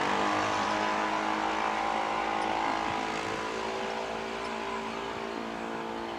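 A motor vehicle engine, likely a motorcycle, running at a steady pitch: it comes in loud just before the start and fades slowly.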